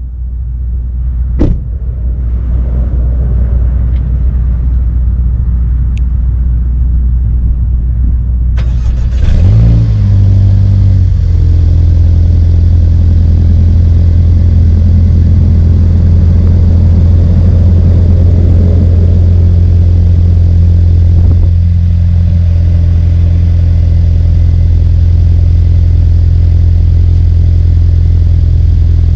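2018 Mercedes-Benz CLA 250's 2.0-litre turbocharged four-cylinder cold-started at about −12 °C. A low rumble with a few sharp clicks comes first; then, nine or ten seconds in, the engine cranks, catches and revs up. By about eleven seconds it settles into a steady idle.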